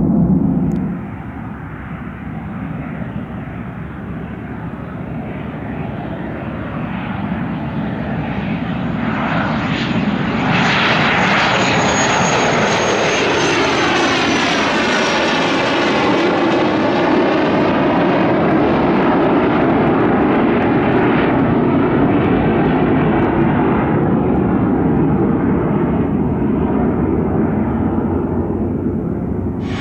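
Aircraft engines passing close by: the noise builds to a peak around the middle and stays loud, with a high whine that slowly falls in pitch as the aircraft goes past.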